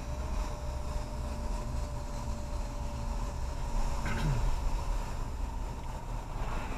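Road and engine noise of a car driving, heard inside the cabin: a steady low rumble with a faint steady tone above it, and one brief sound about four seconds in.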